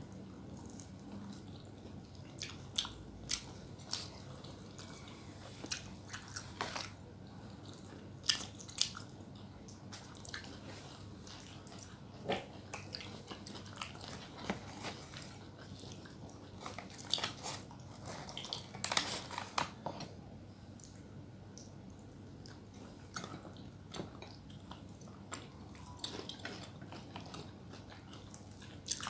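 Close-miked eating: a person biting and chewing food, with irregular small mouth clicks and smacks that come thickest about two-thirds of the way through.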